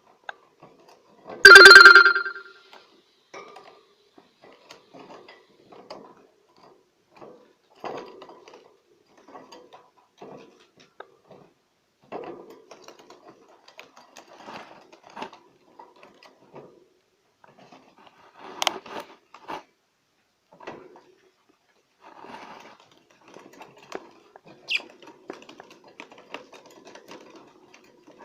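Budgerigars chattering softly: scattered clicks, ticks and short chirps, typical of a male budgie courting a hen. One loud, harsh pitched call about a second and a half in stands out above the rest.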